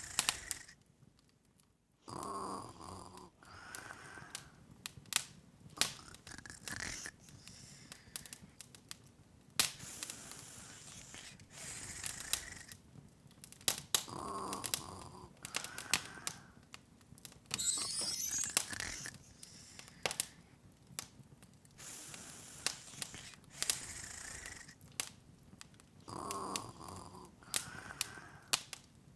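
Open log fire crackling, with irregular pops and snaps. A soft pitched sound comes back about every twelve seconds, and a brief rising sparkly shimmer sounds near the middle.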